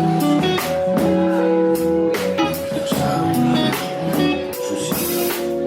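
Live jazz band playing: held melody notes over a steady pulse of drum and cymbal strokes.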